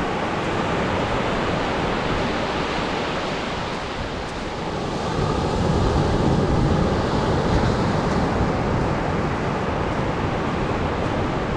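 Atlantic surf breaking and washing up on a sandy beach, a steady rush that swells louder about halfway through.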